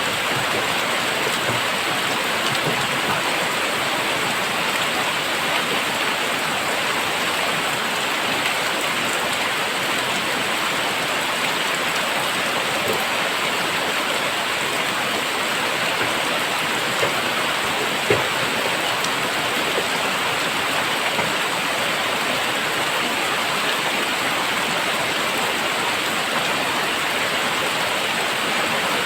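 Very heavy rain falling steadily, a dense even hiss of drops with a few louder single drop hits.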